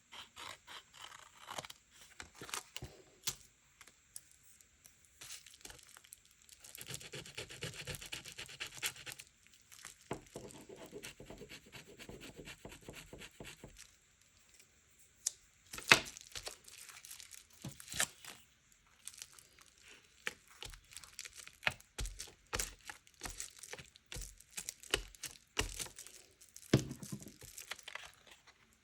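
Paper being torn, crinkled and handled while junk journaling, with two longer stretches of slow tearing or rasping and many short clicks and taps. Soft knocks, like things set down on a table, come in the second half.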